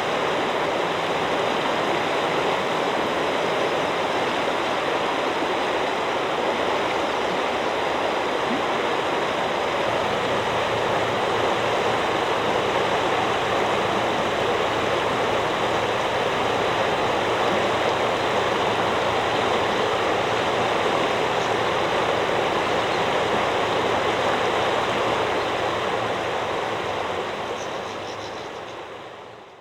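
River water rushing steadily over stones in an even, unbroken wash, fading out near the end.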